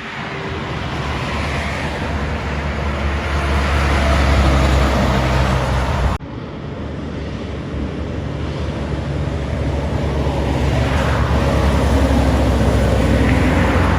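A motor vehicle's engine running steadily. The sound cuts abruptly about six seconds in and then resumes.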